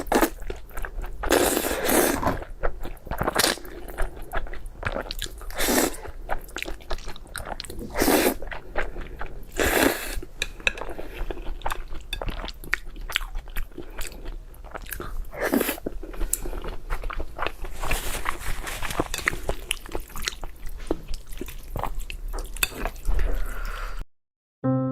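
Close-miked mukbang eating sounds: a person biting and chewing food in irregular bursts, with wet mouth noises and clicks between them, cutting off abruptly about a second before the end.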